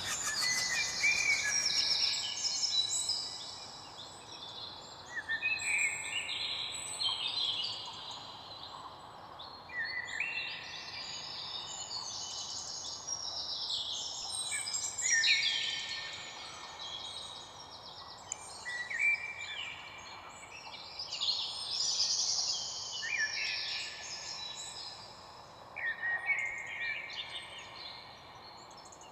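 Several small songbirds singing and chirping together: a dense chorus of quick, high, overlapping chirps and trills that swells and eases over a faint steady background hiss.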